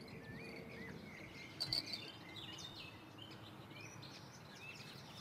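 Faint songbirds calling, short wavering chirps repeated over and over, with one brief clink about a second and a half in.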